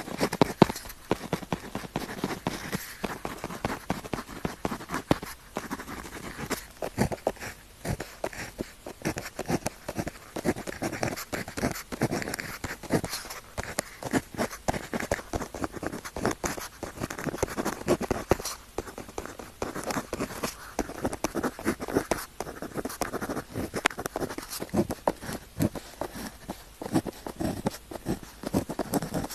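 Pen tip scratching across paper in quick, continuous strokes, with a rapid patter of small clicks and brief pauses between words.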